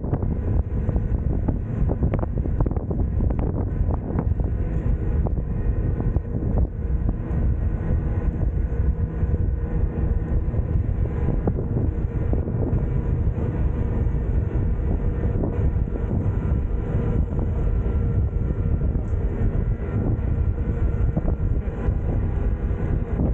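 Glacier Express metre-gauge train running on the rails: a steady low rumble with faint steady tones and occasional clicks.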